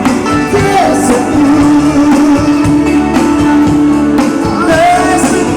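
Live band playing a pop-rock song, a singer's voice over guitar with a long held note.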